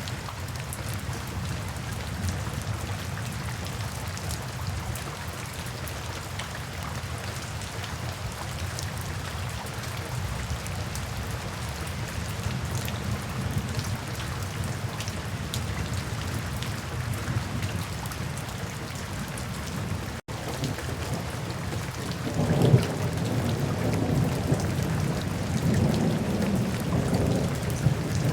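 Steady, heavy rain with a low rumble underneath, briefly cutting out about twenty seconds in. A couple of seconds later a roll of thunder comes in and rumbles on, loudest just after it starts.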